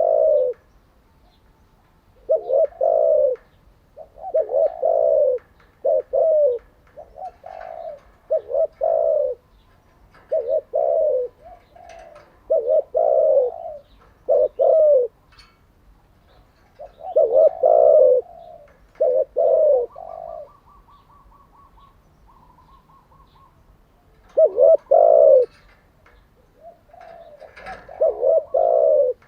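Spotted dove cooing: repeated phrases of low, rolling coos separated by short pauses. A faint high trill comes in briefly about twenty seconds in.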